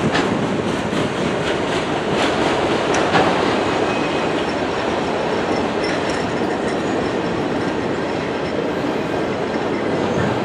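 Freight train of enclosed autorack cars rolling past, a steady rumble of steel wheels on rail with sharp clicks in the first few seconds.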